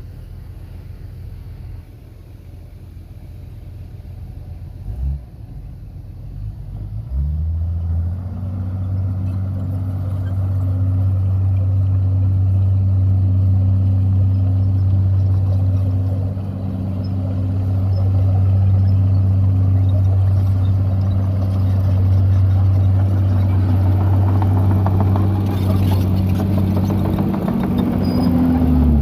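Heavy diesel engine of earthmoving machinery running at a steady speed. It comes in about seven seconds in over a low rumble, rising to a level note that holds, and near the end its pitch dips and rises again.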